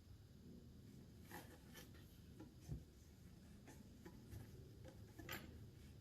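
Near silence, with a few faint clicks and a soft knock as small parts are handled on a workbench.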